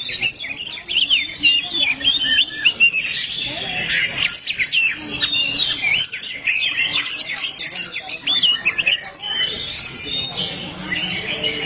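Oriental magpie-robins singing in a duel, a rapid, unbroken stream of varied whistled notes with quick rising and falling sweeps.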